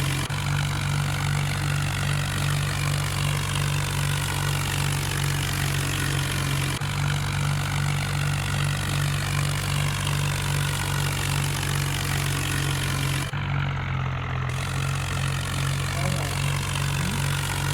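Tractor engine running steadily at low revs. The sound jumps abruptly a few times where clips are joined.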